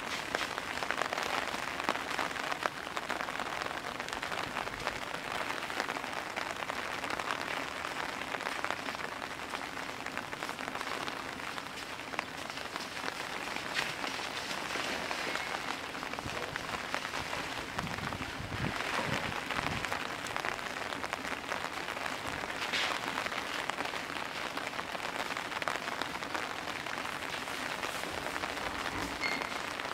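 Heavy rain falling steadily, a dense even hiss of downpour hitting the ground and surfaces.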